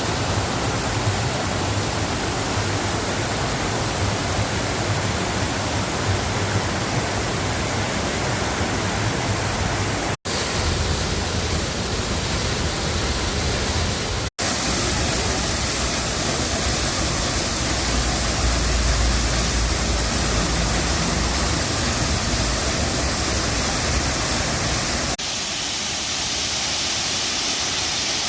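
Waterfalls rushing: a steady, loud wash of falling water. It breaks off for an instant twice, about ten and fourteen seconds in, and turns thinner, with less low rumble, near the end.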